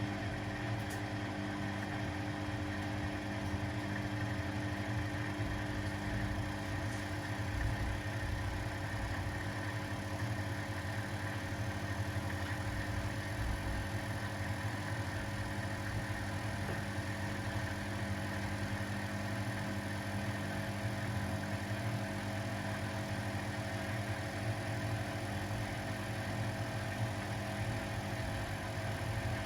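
Household washing machines and tumble dryers running together: a steady hum with several steady tones, and now and then a brief low rumble.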